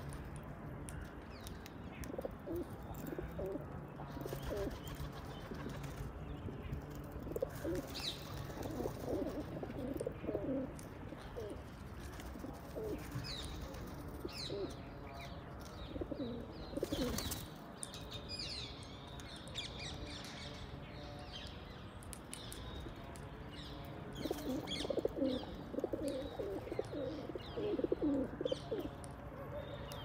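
Birds calling: several bouts of low, quickly repeated calls, with fainter high chirps scattered between.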